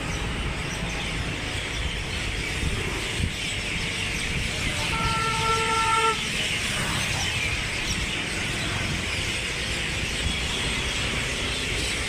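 Birds chirping over a steady low rumble, with a horn sounding once for about a second, about five seconds in.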